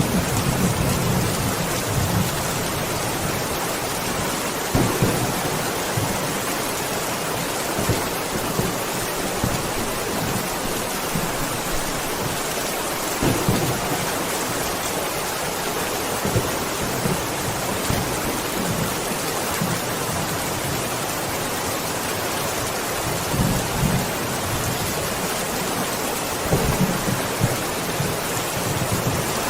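Steady rain falling, with low rolls of thunder rumbling in and out several times.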